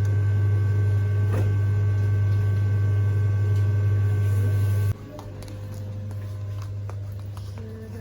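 A loud, steady low hum with faint higher tones over it, cutting off abruptly about five seconds in, followed by faint light clicks and taps.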